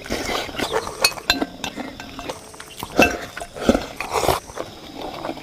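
Eating utensils clinking and knocking irregularly against a bowl, a few strikes ringing briefly, the loudest about three seconds in.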